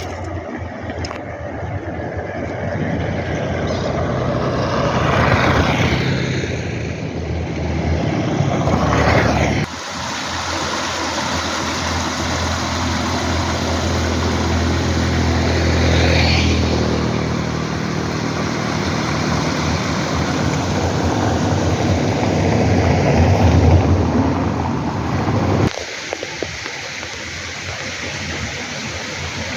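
An engine going by, its noise swelling and fading with a falling pitch, over a steady rushing background; the sound cuts off abruptly about ten seconds in and again near the end.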